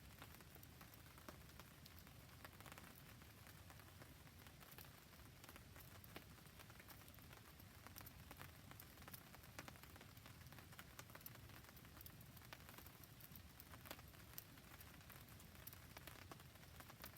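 Faint, steady rain falling, with many small sharp ticks of drops and crackles from a campfire scattered throughout.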